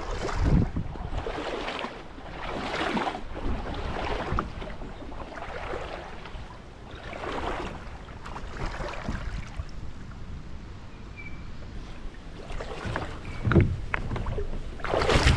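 Kayak paddle strokes splashing in creek water, a swish about every second and a half, pulling against a current through shallows. A few sharp knocks near the end.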